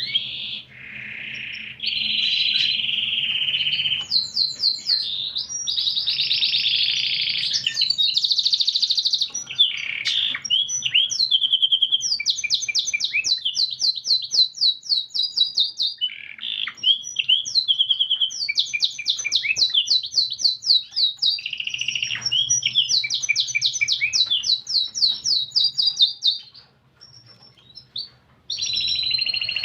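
Domestic canary singing a long, varied song of rapid trills and rolls, with a short pause near the end.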